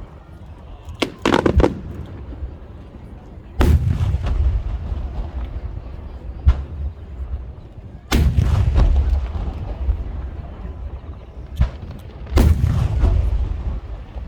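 Large aerial fireworks shells bursting: a quick cluster of sharp cracks about a second in, then heavy booms every few seconds, each trailing off in a long low rumbling echo.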